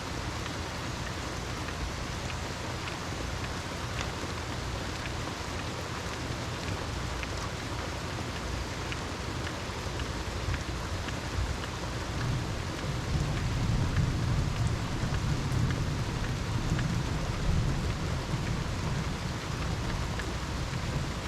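Steady rain falling, with scattered distinct drops, and a long low rumble of thunder that builds a little past halfway and rolls on almost to the end.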